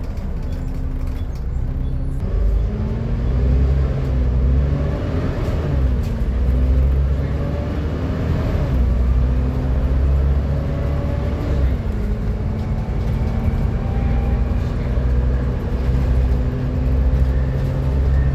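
Wright Gemini-bodied Volvo B7TL double-decker bus running under way, with a heavy engine rumble and the loud hoover-like whine it is known for. The whine rises and falls in pitch through the first two thirds, then holds steady near the end.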